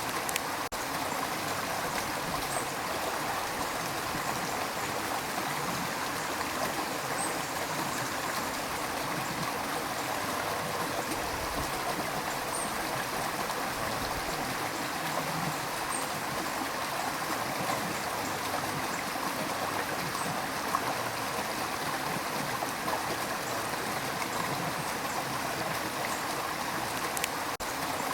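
Rushing river water, a steady, even rush that does not let up.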